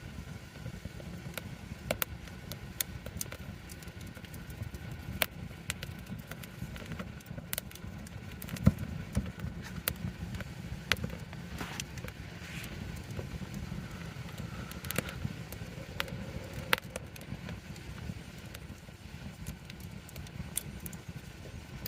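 Wood campfire in a fire stand crackling, with frequent irregular sharp pops over a low steady rumble. The loudest pop comes a little under nine seconds in.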